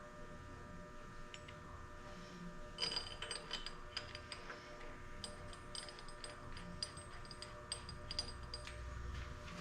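Light metallic clinks and taps, in two clusters of quick strikes with a short ring after each, over a steady hum.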